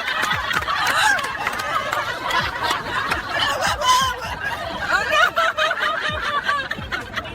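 Laughter: snickering and chuckling.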